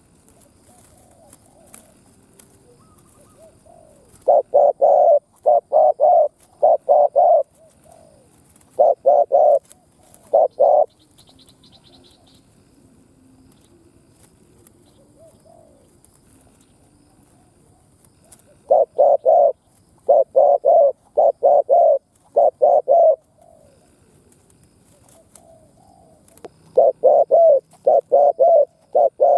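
Spotted dove cooing in rapid runs of short, deep coos: four runs with pauses of several seconds between them.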